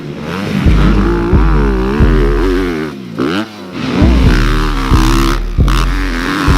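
Motocross dirt bike engines revving up and down, their pitch rising and falling again and again, over music with a heavy, regular bass beat.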